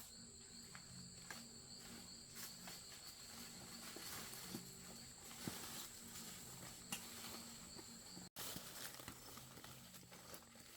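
Steady high-pitched insect trilling with scattered faint clicks and taps; the sound drops out for an instant about eight seconds in.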